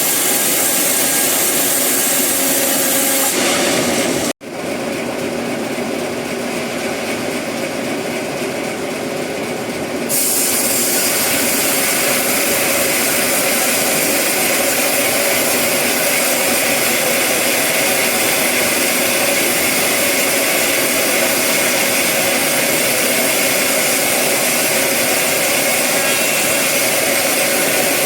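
Sawmill saw running and cutting eucalyptus wood: loud, steady machine noise. It breaks off abruptly for an instant about four seconds in, and the sound changes again about ten seconds in.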